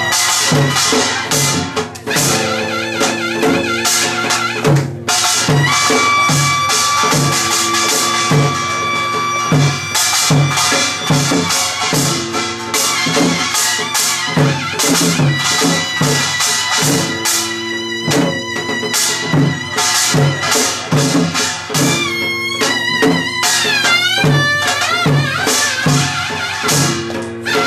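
Korean traditional folk music for the deotbaegi dance: a reedy wind instrument playing long held notes that bend and slide in pitch, over a steady beat of drums.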